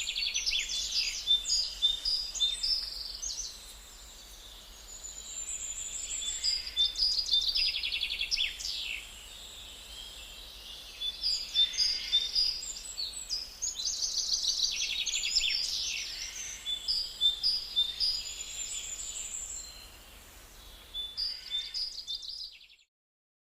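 Songbirds chirping and singing: quick high trills, whistles and chirps in bursts with short lulls between them. The birdsong cuts off abruptly shortly before the end.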